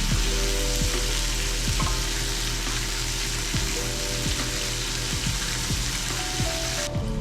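Pork belly (samgyeopsal) sizzling as it fries in a pan, a steady hiss that cuts off suddenly near the end. Light background music plays underneath.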